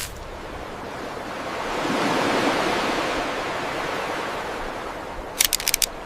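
Rushing water noise, like a wave, that swells over the first two seconds or so and then slowly fades. A quick run of sharp clicks follows near the end.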